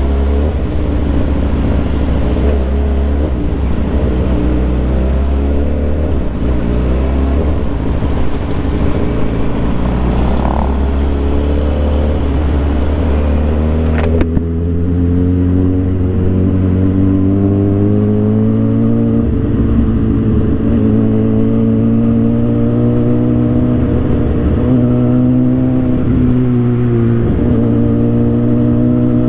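2007 Suzuki GSX-R 750's inline-four engine running under way. There is a sharp click about halfway through, after which the engine note climbs steadily in a long pull.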